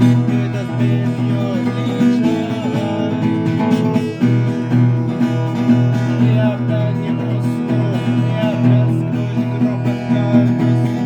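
Guitar music: a strummed acoustic guitar over a steady low bass note, with a few sliding melodic notes on top.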